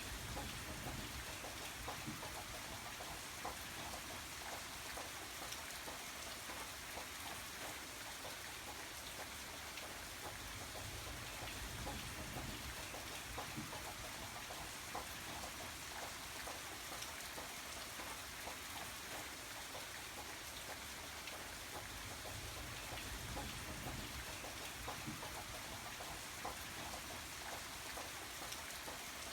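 Steady rain falling, a constant hiss with many small drop ticks over a low rumble.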